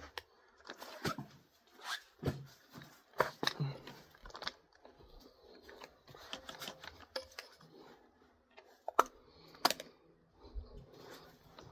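Small clicks and metallic rattles of a bolt-action rifle and its steel magazine being handled and readied to fire, with two sharper clicks about nine seconds in.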